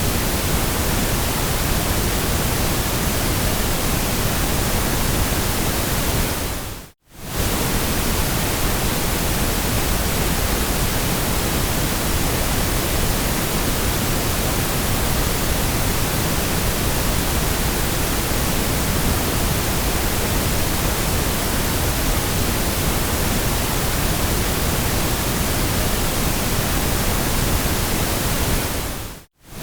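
Steady synthetic white noise, an even hiss across all pitches, that fades out to silence for a moment about seven seconds in and again near the end before coming straight back.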